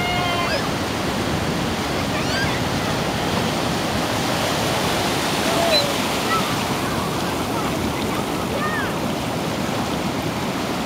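Sea waves washing and breaking in a steady rush of surf. Now and then a short, high call rises above it.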